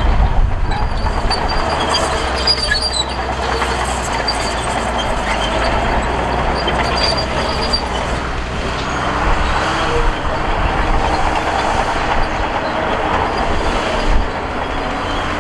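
Crawler bulldozer working: its diesel engine runs steadily under load with the grinding of the tracks and a few high metallic squeals. The deep rumble eases about nine seconds in.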